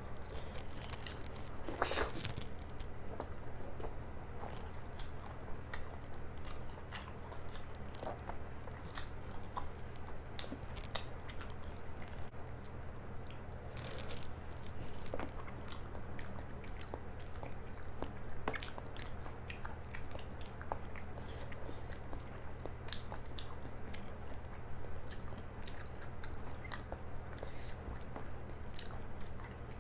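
Close-miked chewing and biting of hand-torn paratha with stuffed capsicum: wet mouth clicks and smacks scattered throughout, with a few louder bites. A steady low hum runs underneath.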